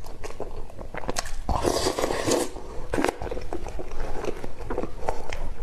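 Close-up eating sounds: wet chewing with many sharp mouth clicks and smacks, and one louder, noisier stretch of about a second starting about one and a half seconds in.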